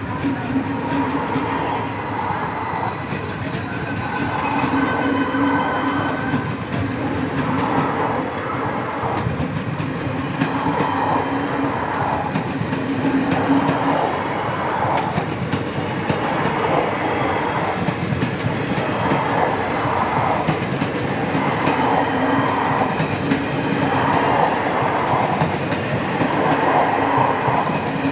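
Passenger coaches of an Indian Railways train rolling steadily past at speed, their wheels clattering over the rail joints in a continuous clickety-clack.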